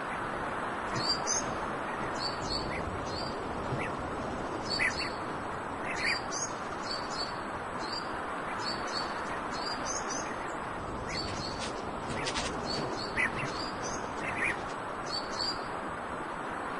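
A small bird chirping again and again in short, high, paired notes, over a steady background rush.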